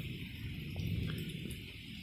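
Thunderstorm: a steady hiss of heavy rain under a low rumble that swells about a second in and then fades.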